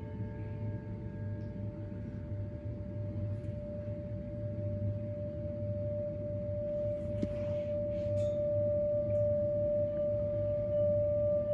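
A single sustained bell-like ringing tone, held steady at one pitch and slowly swelling louder, over a low hum.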